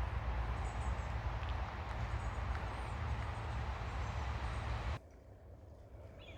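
Ocean waves washing on a beach: a steady rush of surf with a strong low rumble, with a few faint high chirps. About five seconds in it cuts off suddenly to a much quieter surf sound.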